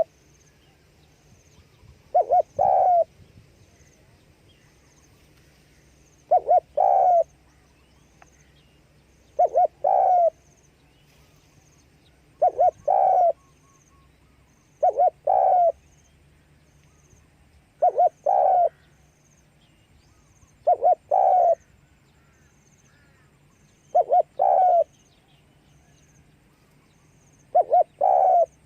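Spotted dove cooing its phrase of two short notes and a longer note, nine times at an even pace of about one phrase every three seconds.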